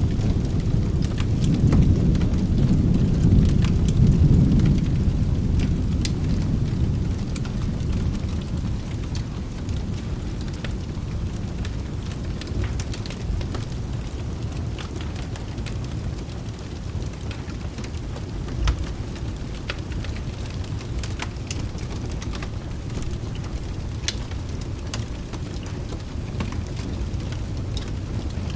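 Rolling thunder rumbles for the first several seconds and fades away, over steady rain. Scattered sharp crackles run throughout, and a single low thump comes about two-thirds of the way through.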